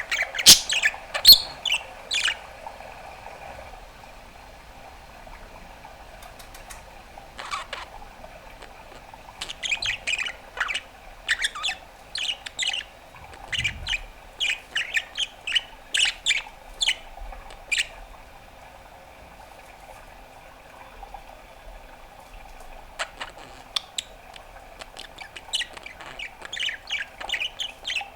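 Pet budgerigar chirping and squawking in quick runs of short, sharp calls. There are three bursts of calls, with pauses of several seconds between them.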